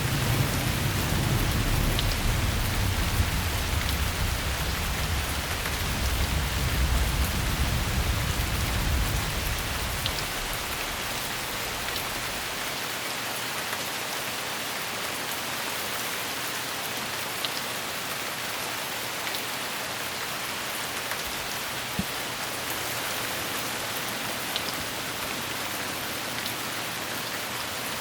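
Steady heavy rain falling, with a low rolling rumble of thunder that dies away about ten seconds in, leaving only the rain.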